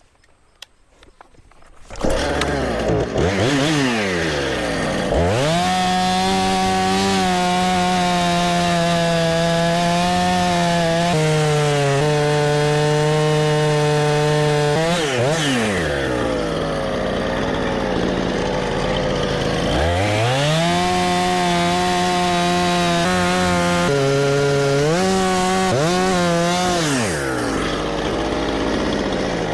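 A Husqvarna chainsaw comes in abruptly about two seconds in and runs at high revs, cutting into an oak log. Its revs drop and climb back several times, holding steady in between.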